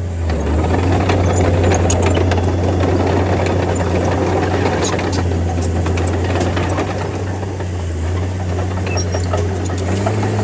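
A D30 bulldozer's diesel engine running steadily with a deep drone, along with scattered light clicks and knocks of machinery at work.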